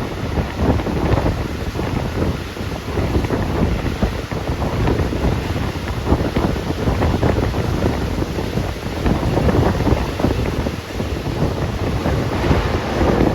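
Wind buffeting the phone's microphone: a steady, unbroken rush and rumble, strongest in the lows.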